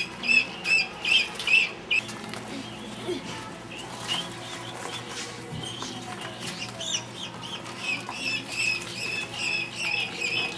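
A group of ducklings peeping: many short, high calls repeated in quick succession. They are loudest in the first couple of seconds, fainter in the middle and busier again near the end.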